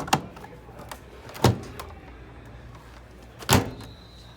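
Two loud thuds about two seconds apart over the steady low hum of laundry-room washing machines, with a faint high beep starting just after the second thud.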